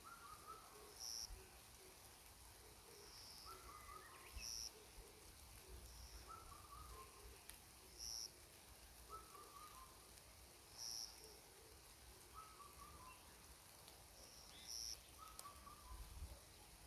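Faint songbirds calling in a forest: one bird repeats a short, high call every couple of seconds while another repeats a lower, short descending phrase, with soft chirps underneath.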